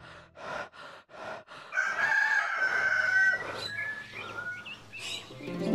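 A few soft taps, then one long crowing bird call held for about a second and a half, followed by several short chirps.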